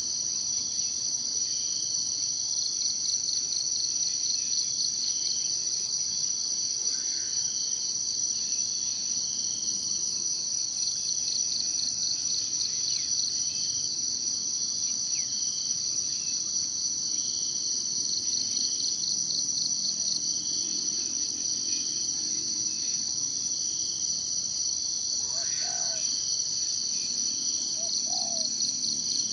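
A dense insect chorus of crickets or cicadas gives a steady, high, unbroken trill. A second insect pulses more slowly underneath, about once a second. A few short bird calls come through faintly near the end.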